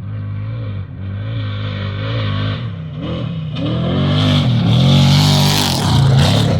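Off-road race vehicle's engine revving hard, its pitch rising and falling with each shift or throttle lift, getting steadily louder as it approaches.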